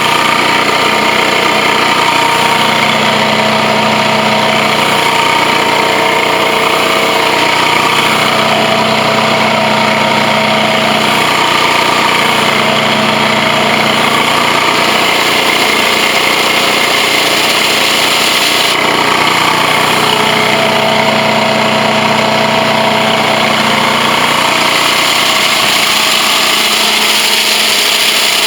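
Truck-mount carpet extractor running steadily: its engine, vacuum blower and high-pressure pump going together, with a low hum that swells and fades every few seconds.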